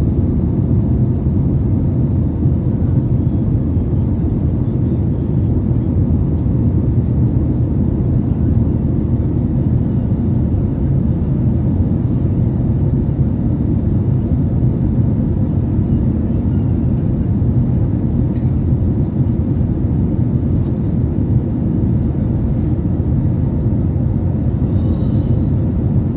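Steady low rumble of airliner cabin noise in flight: engines and airflow heard from inside the cabin, even and unchanging.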